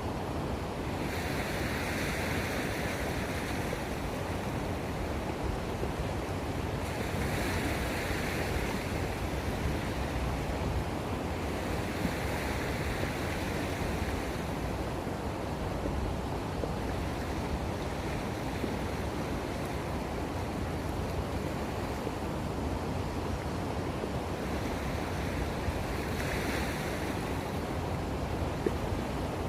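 Sea waves washing in at the water's edge, a hiss that swells and fades about every five or six seconds, over a steady low rumble of wind on the microphone.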